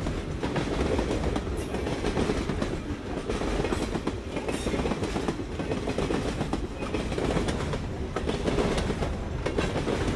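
VIA Rail passenger train rolling past, its wheels clattering over the rail joints in a steady run of clicks.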